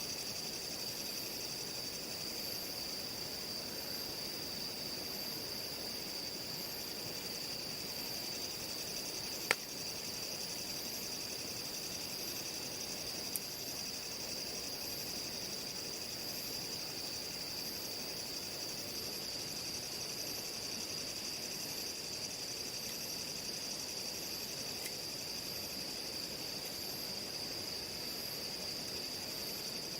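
Night insects, crickets by the sound, keep up a steady high trill, with a fainter, higher chirp pulsing about once a second above it. Two sharp snaps cut through, the louder about ten seconds in and a fainter one a few seconds later.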